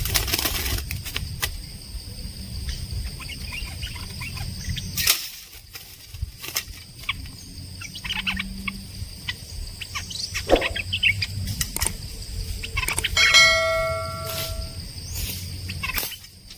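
Birds calling in the forest, mostly short scattered chirps. About thirteen seconds in, one clear held whistled note rings out. A steady high drone runs underneath throughout.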